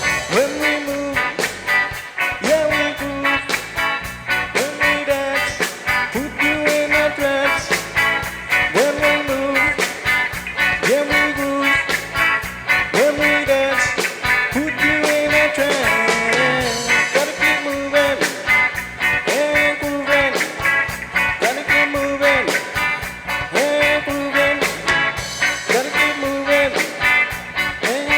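Reggae band playing live: a steady beat with a short melodic figure repeating about once a second.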